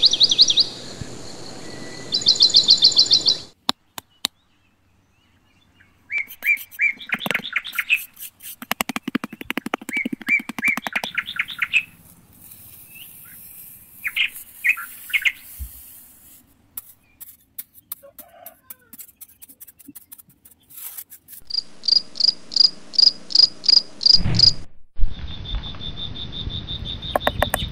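Small birds chirping in quick repeated trills, several different calls in short bursts that start and stop abruptly, with a few seconds of silence early on.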